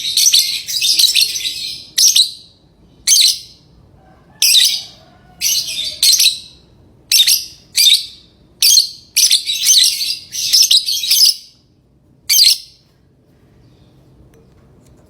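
Lovebirds chirping in a series of loud, high-pitched bursts, about a dozen of them, stopping a couple of seconds before the end.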